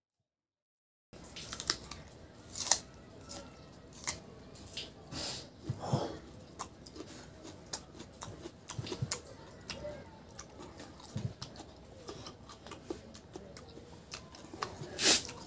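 Close-miked mukbang eating sounds: a person chewing pork curry and rice with wet mouth clicks and lip smacks. It starts after about a second of silence, with a few louder smacks, one of them near the end.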